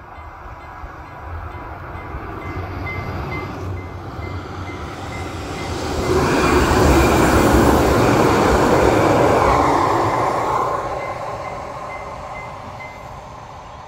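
Electric passenger train passing over a level crossing, its running noise swelling to a peak about six seconds in and fading after about eleven. Throughout, the crossing bell rings in rapid, evenly spaced strokes, stopping near the end.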